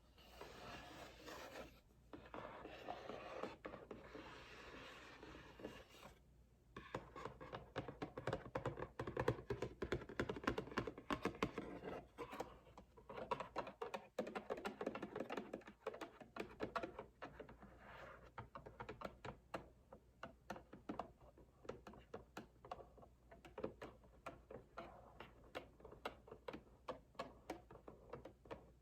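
Close-up fingernail scratching and rubbing on packaging for the first six seconds or so, then rapid, continuous fingernail tapping that sounds like fast typing. This is ASMR-style cardboard tapping.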